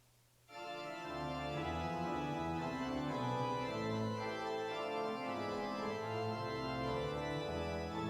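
Organ music starting about half a second in, with sustained chords over low bass notes.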